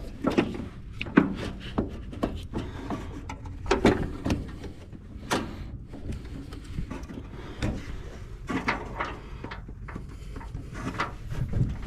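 Irregular knocks, clicks and scraping of a car battery being set into a battery tray and its terminals hooked up.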